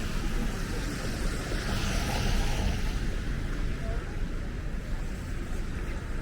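Steady outdoor city street noise: a low rumble under a hiss that swells briefly about two seconds in.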